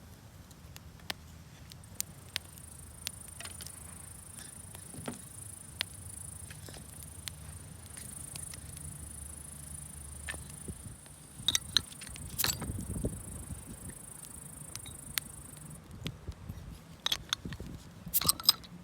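Campfire crackling with scattered sharp pops, a few louder clusters of them, under the continuous high trill of insects, which stops suddenly near the end.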